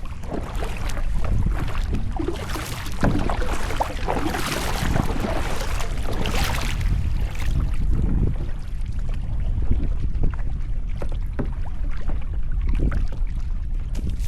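Wind buffeting the microphone, with kayak paddle strokes splashing in the water every second or so; the splashing eases off about halfway through.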